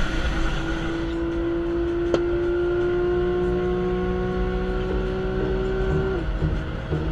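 Porsche 911 Carrera's flat-six engine heard from inside the cabin at high cruising speed, a steady drone over road and wind noise that rises slightly in pitch. A single sharp click comes about two seconds in, and the engine note drops about six seconds in.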